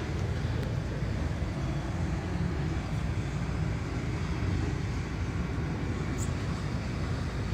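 Steady low rumbling background noise without a clear engine note.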